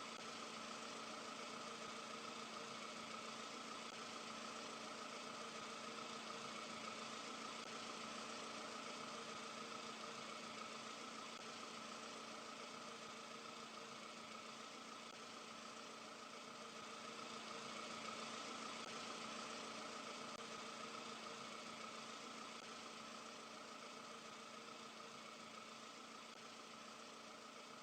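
An engine idling steadily: a faint, even running hum that starts abruptly just before and holds without change.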